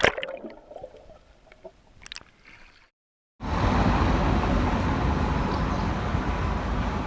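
Music cuts off, a few faint sounds trail away, and after a brief silence a steady rushing outdoor noise starts about three and a half seconds in.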